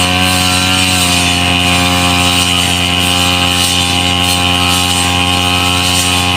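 Small petrol brush cutter (grass-cutting machine) engine running steadily at constant speed, its pitch dipping slightly and settling in the first second.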